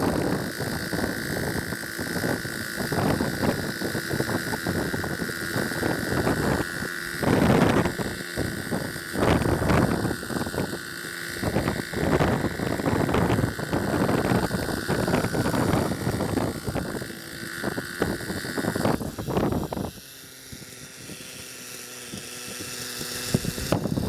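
Engine of a Hirobo Sceadu RC helicopter running in flight with a steady high whine, and wind buffeting the microphone in gusts. About twenty seconds in, the sound drops to a quieter, steadier hum.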